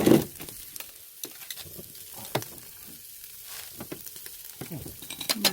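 Fatty pork neck sizzling on a charcoal brazier grill: a steady hiss with small scattered crackles. A short loud burst comes right at the start.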